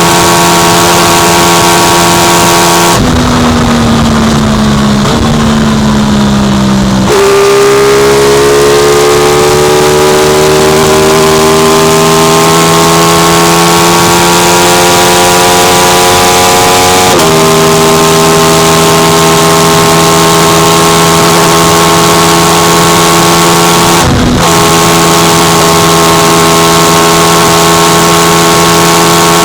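Aprilia RS660's parallel-twin engine running hard at high revs over steady wind rush. About three seconds in the throttle closes and the revs fall for a few seconds, then pick up sharply and climb steadily for about ten seconds. The pitch then steps down as the bike shifts up and holds steady, with a brief dip near the end.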